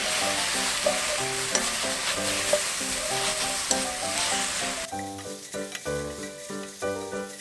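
Pollock skins sizzling and crackling as they are stir-fried in a dry pan without oil and turned with chopsticks; the sizzle cuts off about five seconds in. Background music with a bouncy beat plays throughout.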